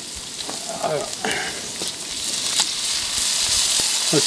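Meat, onion and garlic sizzling in a paella pan over a gas burner. The sizzle grows louder through the second half as diced tomatoes are tipped into the hot pan to build the sofrito.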